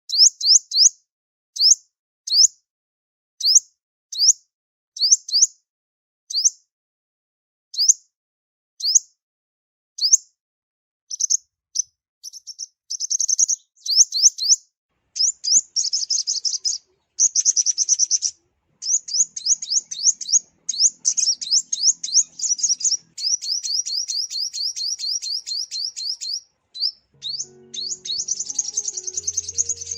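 Sunbird calling: short high-pitched rising chirps about one a second, which quicken from about eleven seconds in into fast, dense twittering trills.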